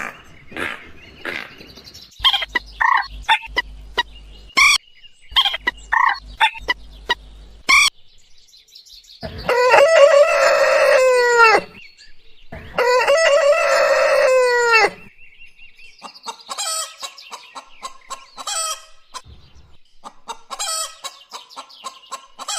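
Bird calls: two loud, long calls of about two seconds each near the middle, each falling in pitch at the end, between shorter clucking and chirping calls.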